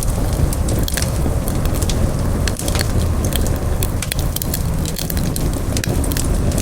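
Campfire crackling, with frequent sharp pops and snaps over a steady low rush of burning wood.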